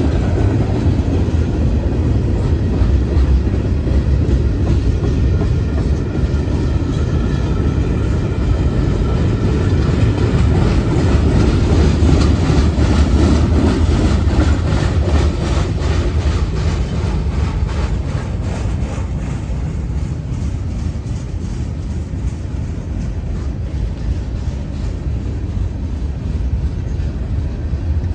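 Train rolling past: a steady heavy rumble with the rapid clickety-clack of wheels over rail joints through the middle, easing off toward the end.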